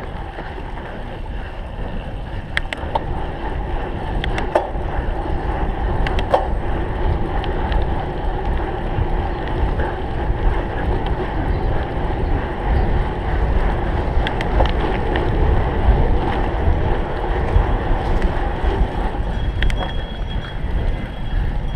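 Wind buffeting the microphone over the rumble of a cyclocross bike being ridden hard over rough ground, with scattered sharp clicks and rattles from the bike.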